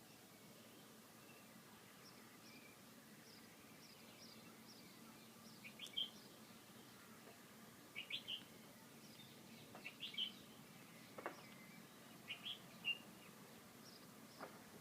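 Birds chirping faintly in short clusters of quick high chirps, about five or six times, over a low steady hum.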